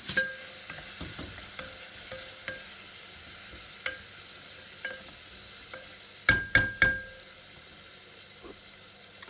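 Onion and bottarga frying gently in olive oil in a pan over a lowered flame, a steady soft sizzle. A utensil stirs and taps the pan with small ringing clicks every second or so, and knocks loudly against it three times about six seconds in.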